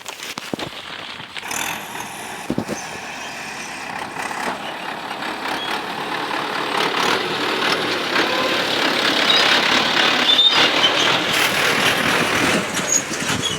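Heavy diesel machinery running at a soil-loading site, with the noise of an excavator or dump truck engine. It grows steadily louder through the first two-thirds, with a few knocks near the start, and then stays loud.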